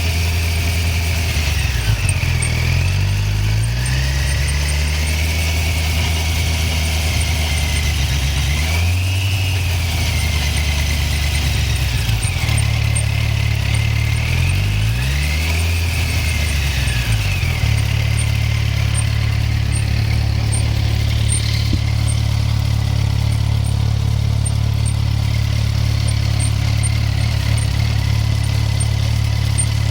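Yamaha FZ1's inline-four engine running, the revs rising and falling a few times in the first half before settling to a steady idle. A high whine rises and falls with the revs.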